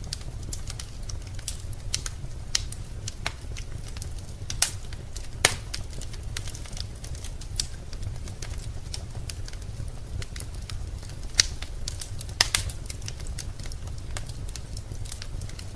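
Wood fire burning in a fireplace, crackling with irregular sharp pops, a few of them louder, over a steady low rumble.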